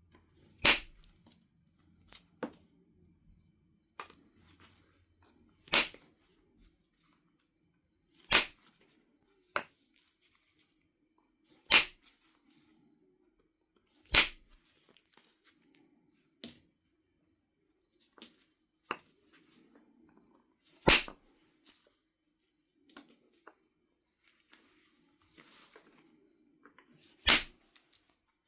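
Sharp knocks of a knapping billet striking a Knife River flint biface, one every one to three seconds, some with a short ring, as flakes are driven off during biface reduction.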